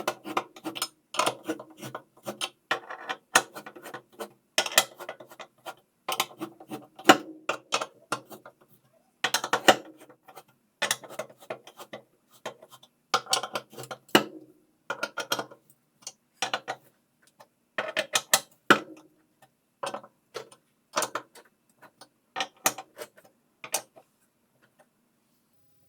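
Hand tools and metal parts clicking and rattling in irregular bursts during the reassembly of a top-load washing machine's drive mechanism, with clicks like a ratchet wrench being worked. The clicking stops about a second before the end.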